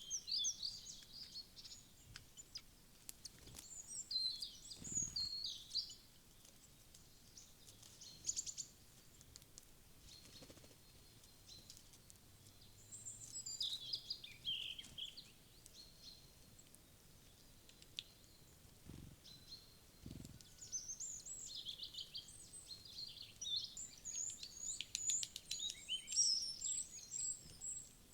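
Small wild songbirds chirping and calling in short, high bouts, busiest in the last third, with a few dull low thumps in between.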